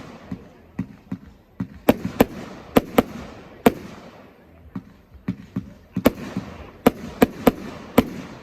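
Fireworks going off: two volleys of sharp bangs, about five loud ones each, with a lull of about two seconds between them and smaller pops scattered around.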